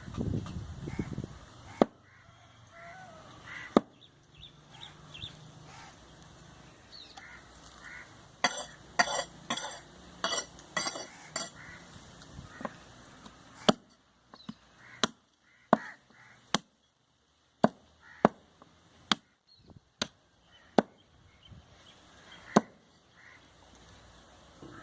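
Meat being chopped with a heavy knife on a board: single sharp strikes at uneven intervals, with a quicker run of blows in the middle. Waterfowl honking can be heard in the background.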